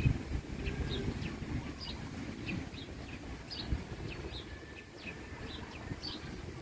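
Small birds chirping over and over, with short, high, downward-sliding chirps about three a second, over a low rumble.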